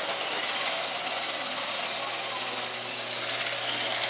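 Robot vacuum cleaner running: a steady motor whir with an even hum.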